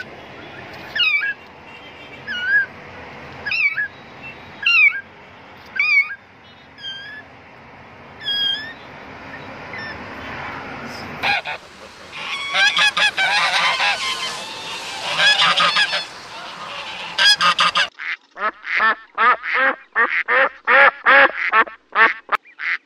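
A flock of domestic geese honking in dense, overlapping calls, then ducks quacking in quick repeated calls, about three a second, near the end. Before the geese, a series of single high calls comes about a second apart.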